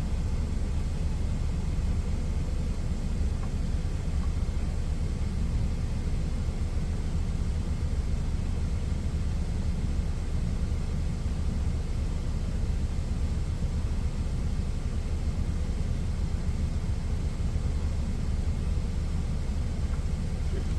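Steady low rumble of an idling truck engine heard inside the cab, unchanging throughout.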